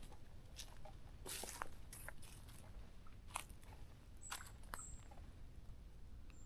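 Footsteps crunching on dry leaves and twigs of the forest floor, an irregular crackle about once a second, with a few short, high bird chirps in the background toward the end.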